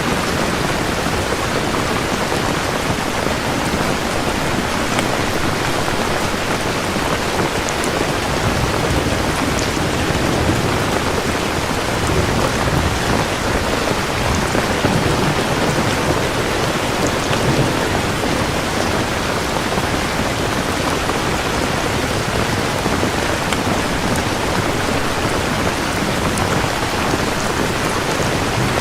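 Steady rain pouring down, with low thunder rumbling and swelling through the middle.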